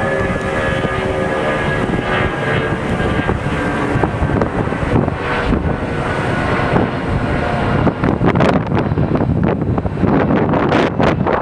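Jet airliner engines running: a steady multi-tone whine that fades over the first few seconds, leaving a broad rushing noise. Wind buffets the microphone in the second half.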